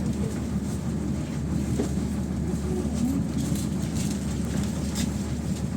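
PAZ-32054 bus engine running under way, heard from inside the cabin as a steady low hum with faint rattles and clicks.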